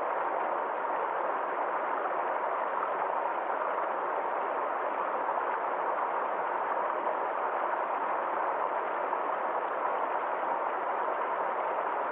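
Forest stream flowing, a steady, even wash of water with no change in level.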